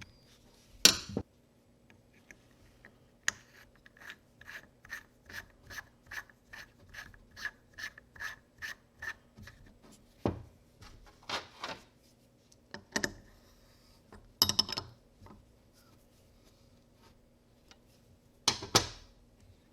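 Hand-tool work: a run of even rasping strokes, about three a second, for several seconds, with sharp knocks and clatters of metal parts and tools before and after.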